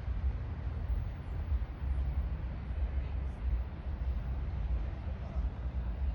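Outdoor ambience: an uneven low rumble under a steady hiss.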